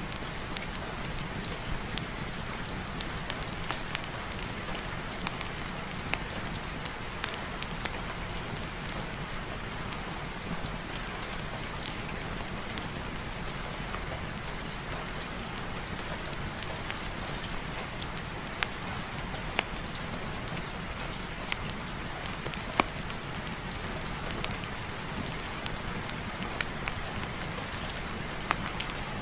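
Steady heavy rain falling on a surface, with many scattered sharp drop ticks over a constant hiss.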